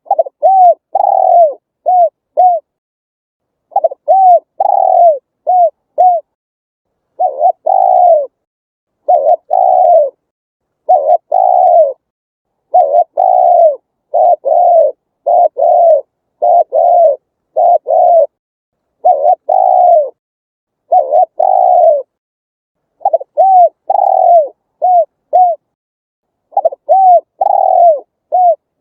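Spotted dove cooing: repeated phrases of several low, arched coos, each phrase a second or two long, with short silent gaps between phrases.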